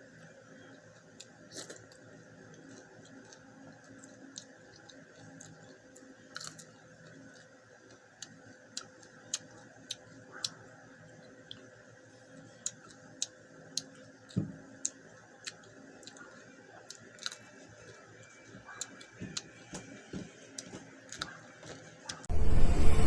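Close-miked chewing of shrimp eaten with the shell on: irregular sharp crunches and clicks, about one or two a second. Loud music starts near the end.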